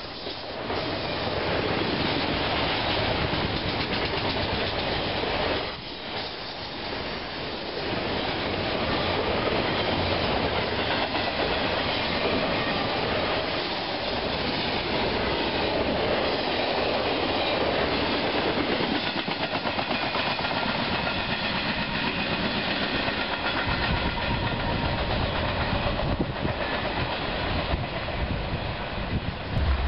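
Intermodal freight train of highway trailers on flatcars rolling past at speed: a steady rumble of steel wheels on rail with clickety-clack over the rail joints.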